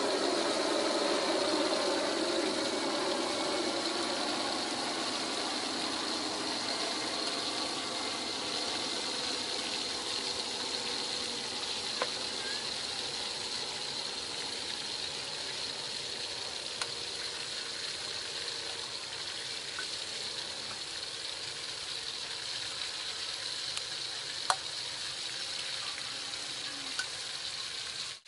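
Snake pieces sizzling in oil in a wok over a portable gas stove, a steady frying hiss that is a little louder in the first few seconds. A few brief sharp taps, about three, stand out.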